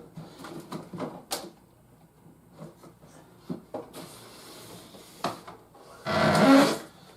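Toy packaging being handled: scattered knocks, clicks and rustles of cardboard and plastic, with one louder rustling scrape lasting under a second about six seconds in.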